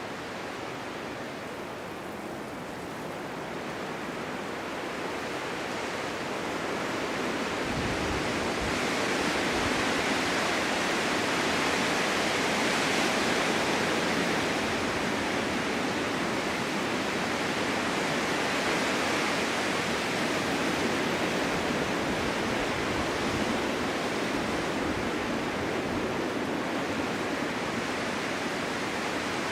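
Snowstorm wind blowing hard, a steady rushing hiss that swells into a stronger gust over the first ten seconds or so and then eases a little. A few low buffets come about eight seconds in.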